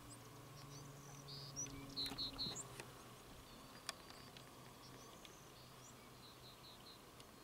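Faint birdsong outdoors: small birds chirping, with a quick run of three chirps about two seconds in and a run of softer chirps near the end, a few faint clicks in between, over a faint steady hum.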